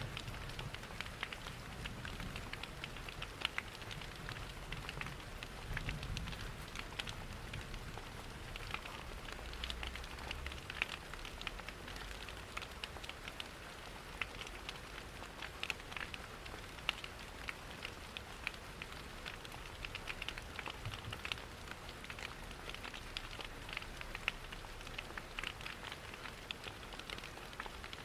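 Steady rain pattering, mixed with the crackle of a wood fire in a fireplace: many small, sharp, irregular ticks over an even hiss.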